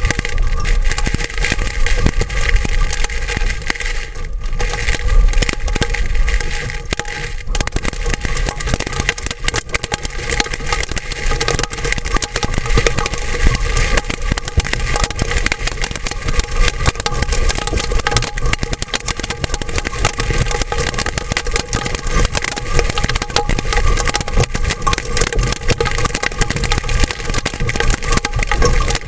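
Large hailstones, two to two and a half inches across, pelting a roof-mounted camera dome and the vehicle roof in heavy rain: a dense, constant clatter of hits with no let-up.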